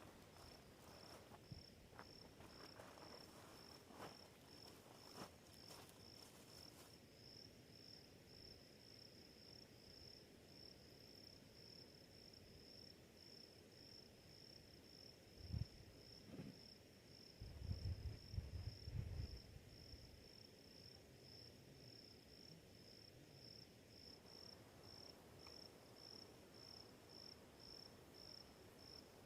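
A cricket chirping in an even, unbroken run of high chirps. A few low thuds and a short stretch of rumbling come about halfway through and are the loudest sounds.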